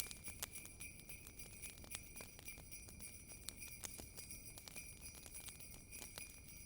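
Faint jingle bells ringing steadily over a crackling wood fire, with many small, irregular pops and snaps.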